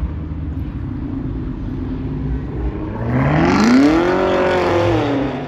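Car engine running with a low, steady rumble, then revving hard about three seconds in: the pitch climbs steeply, holds high and eases down slightly near the end.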